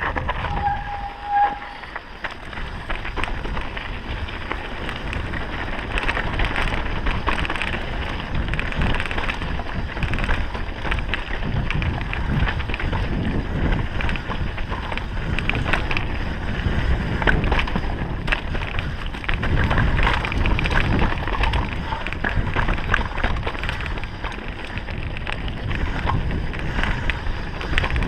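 Downhill mountain bike riding: wind rushing over the microphone while the bike and its tyres clatter over the trail, with frequent sharp knocks from bumps. A short steady tone sounds briefly about a second in.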